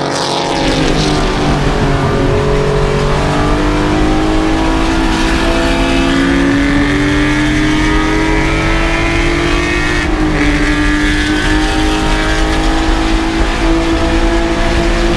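Vintage race car engine running hard: its note falls over the first couple of seconds, then climbs slowly under throttle, with a short break and a drop in pitch about ten seconds in, like a gearshift, before climbing again.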